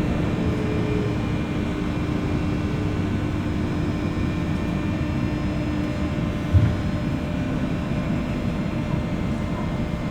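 Running noise of a JR West 201 series electric train, heard inside a car above its armature chopper: a steady rumble of wheels on rail with faint steady whine tones, one of which fades out about halfway through. A single low thump comes about six and a half seconds in.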